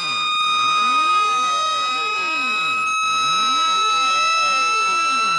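Electronic speaker-cleaning (water eject) tone played through a speaker: a steady high tone that slowly creeps up in pitch, layered with tones that sweep down and back up over and over. There is a brief dropout about three seconds in.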